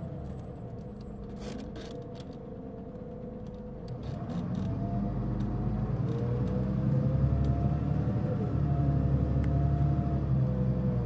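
Mitsubishi Fuso Aerostar LKG-MP37FK city bus running, its diesel engine rumble growing louder about four seconds in as it pulls harder, with a whining tone rising and falling over it. The bus is marked by a considerable abnormal noise. A few clicks sound in the first couple of seconds.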